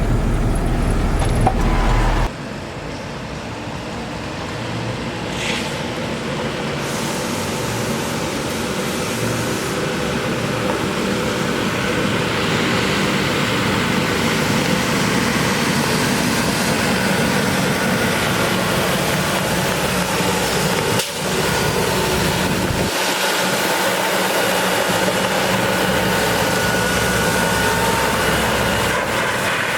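Ford F750 water truck's Cummins 6.7-litre diesel running, with an even hiss that builds over several seconds after an abrupt change about two seconds in.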